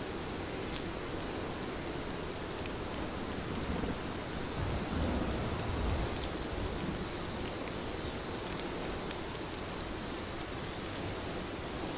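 Heavy rain falling steadily, with scattered drop ticks in the hiss. A low rumble swells up about four seconds in and fades by about seven.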